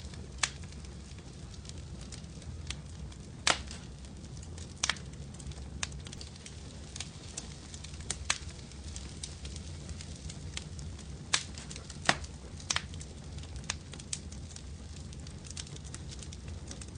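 Wood fire crackling in a fireplace: a steady low rumble of flames with irregular sharp pops and snaps, the loudest pops about three and a half seconds in and again about twelve seconds in.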